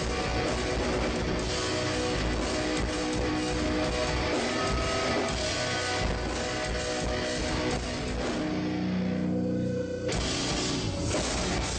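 Live metalcore band playing through a PA: distorted electric guitars and drums. Near the end the drums stop for about a second and a half and a single low guitar chord rings on alone before the full band comes back in.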